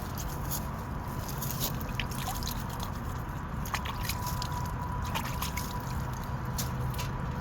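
Rain falling steadily, with scattered individual drops dripping and ticking close by at irregular intervals.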